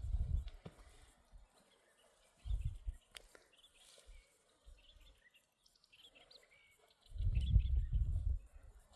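Small birds chirping in short calls, with a low muffled rumble at the start, briefly about two and a half seconds in, and loudest about seven seconds in.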